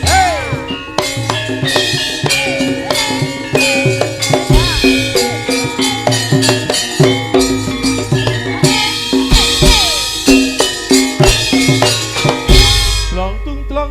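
Javanese gamelan playing lively dance music: ringing metallophone notes over fast hand-drum (kendang) patterns whose strokes slide up and down in pitch. A deep low note swells in near the end.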